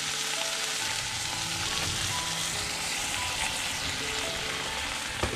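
Onion, bell pepper, mushrooms and chicken sizzling steadily in a skillet as softened noodles are tipped in, with light background music over it and one sharp knock near the end.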